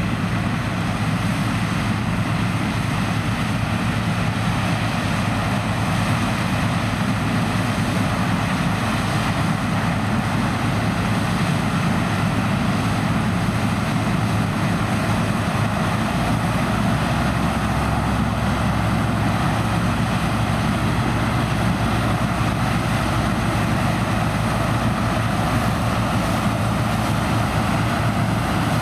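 Harvesting machinery, a New Holland combine working in corn, running steadily under load, with a deep, even hum; a lower drone comes in about halfway through.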